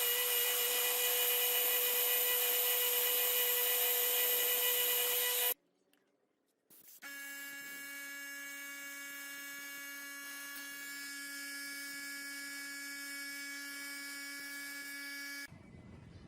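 Electric motor running with a steady whine that stops abruptly about five seconds in. After a brief silence it runs again at a lower pitch and more quietly, then cuts off sharply near the end.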